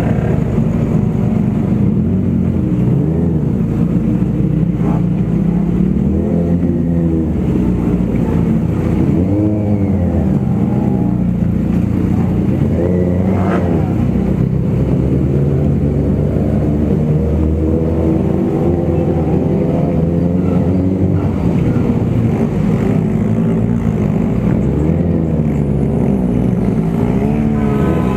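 Motorcycle engine under way, its revs climbing and dropping again and again as it pulls through the gears, over a steady low rumble.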